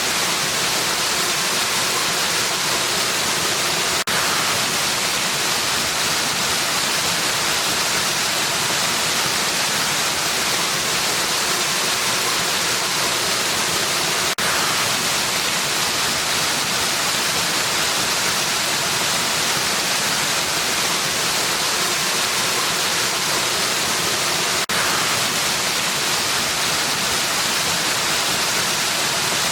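Waterfall rushing in a steady, dense hiss with no change. There is a brief dip three times, about ten seconds apart.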